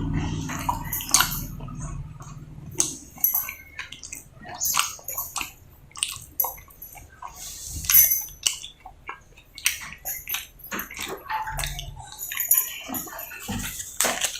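Close-miked eating sounds: wet chewing and lip smacking on soft roti and potato sabzi, a string of irregular clicks and smacks. A low hum sits under the first two seconds.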